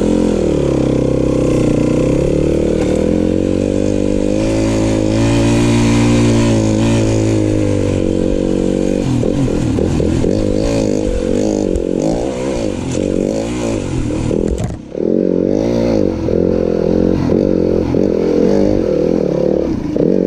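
Yamaha WR-F four-stroke single-cylinder dirt bike engine being ridden, its revs rising and falling with the throttle. After about nine seconds the throttle is worked on and off more often, with a brief drop about fifteen seconds in.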